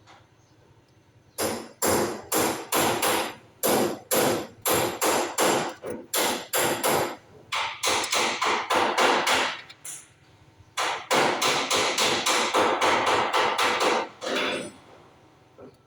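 Hammering: a long run of sharp blows, about two to three a second, with a short break about ten seconds in.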